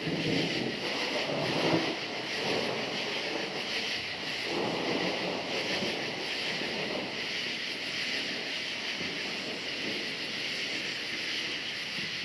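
A steady chorus of crickets chirping, with thunder rumbling low underneath that swells in the first few seconds and again about halfway through.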